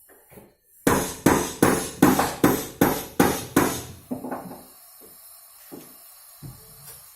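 Hammering during sofa repair: a steady run of about eight sharp blows at nearly three a second, then a few softer knocks.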